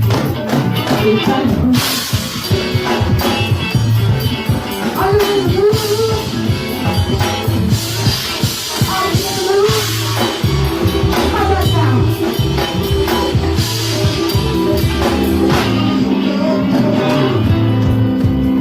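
Live band music: drums, bass and guitar playing a song, with a melodic line that may be sung.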